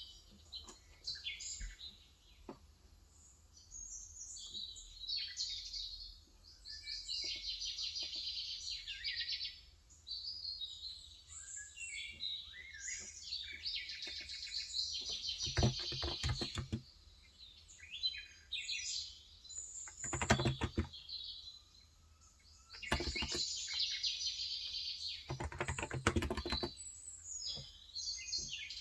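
Small birds chirping and twittering almost without pause. From about halfway through, short bursts of typing on a Cox Endeavor electrostatic capacitive (Topre-style) keyboard with 35 g switches come in several times.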